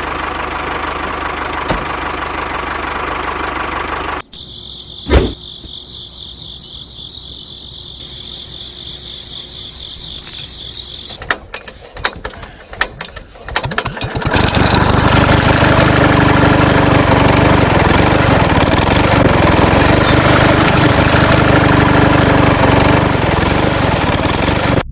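Small motor-driven machine running in several stretches: a steady whir, then a high whine with one sharp click about five seconds in, a patch of irregular clicking, and from about fourteen seconds a louder steady running.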